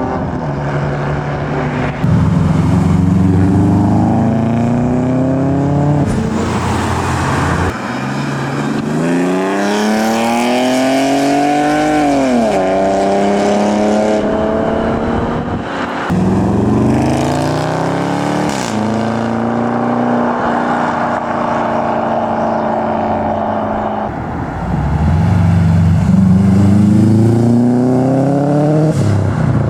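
Tuned cars accelerating hard away one after another, about five in turn, each engine note rising in pitch as it revs up. Twice a rev cuts off with a sharp drop in pitch as the throttle is lifted or a gear is changed.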